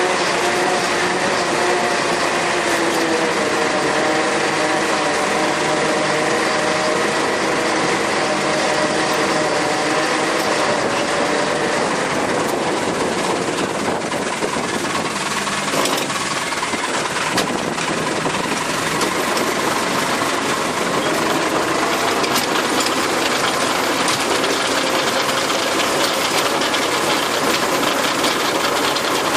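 Tractor engine running steadily under load while driving a rotary tiller working the soil. The engine note dips slightly about three seconds in, and from about halfway the sound turns into a more even, rougher noise.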